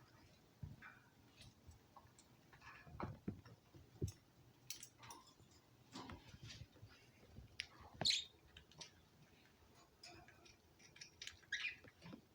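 Pet birds chirping briefly, once about eight seconds in and again near the end, between faint scattered clicks, scratches and a few soft knocks.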